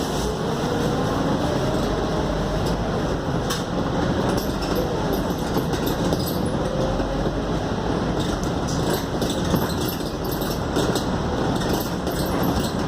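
Scania K280UD double-decker bus under way, heard from inside: engine and road noise, with a faint whine that rises slowly in pitch over the first several seconds as the bus gathers speed.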